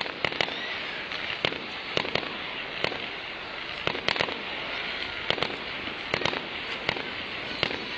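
Fireworks display: shells bursting with sharp bangs at an irregular pace, some in quick pairs, over a constant crackling, fizzing haze.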